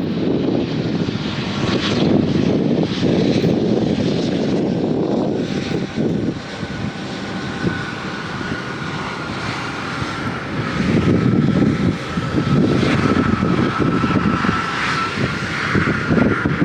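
Airliner engines running, with a steady high whine that sets in about five seconds in, over gusts of wind buffeting the microphone.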